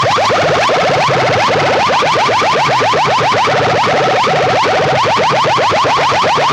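Loud electronic alarm-like sound effect played through a competition PA loudspeaker rig: rapid rising chirps, about eight a second, in repeated bursts over a pulsing low beat, with echo.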